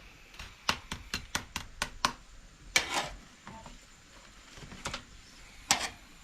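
Sharp taps and knocks of hands at cooking work: a quick, uneven run of about eight taps, then two louder knocks, one about a second later and one near the end.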